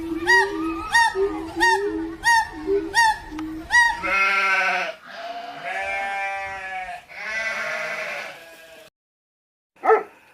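A sheep bleating three times, each call about a second long, after a run of short chirps, about three every two seconds, over a low repeating tune. A short bark starts right at the end.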